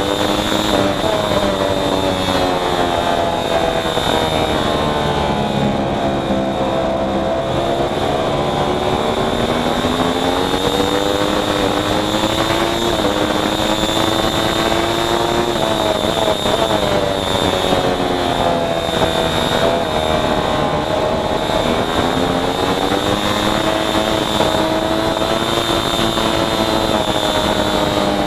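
Racing motorcycle engine running hard, its pitch rising and falling again and again with the throttle, with a steady high whine over it.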